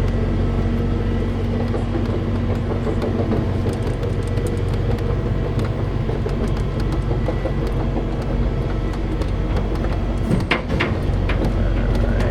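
Tow truck's engine running steadily, with a few sharp clanks about ten and a half seconds in.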